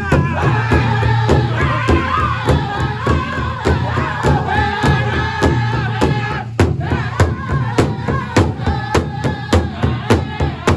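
Pow wow drum group singing together in high voices over a large shared drum beaten in a steady pulse, about three strokes a second, with a harder stroke about two-thirds of the way through.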